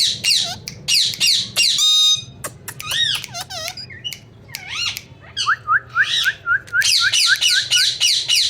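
Indian ringneck parrot calling: fast runs of sharp falling squawks, a harsh buzzy screech about two seconds in, a few whistled up-and-down notes, then a quick series of short rising chirps before the falling squawks return near the end.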